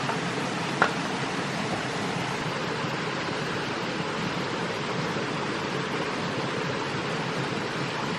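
Steady rushing noise throughout, with one sharp knock a little under a second in.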